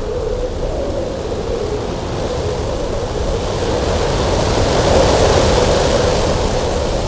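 Cold winter wind blowing steadily, carrying a low hollow tone through the rush. It builds into a stronger gust about four to six seconds in, then eases a little.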